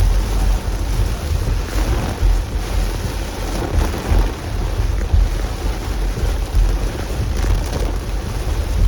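Hard rain and gusting wind in a storm: a loud, steady rushing noise heavy in the low end, rising and falling with the gusts like wind buffeting the microphone.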